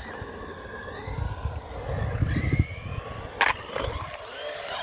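JLB Cheetah RC buggy with a 17-tooth pinion driving, its electric motor whining and rising and falling in pitch over a low rumble. There is a sharp knock about three and a half seconds in.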